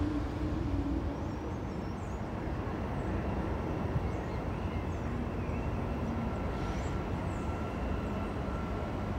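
Steady low rumble of an electric commuter train and rail traffic at the station, with a faint steady whine and a few faint high bird chirps.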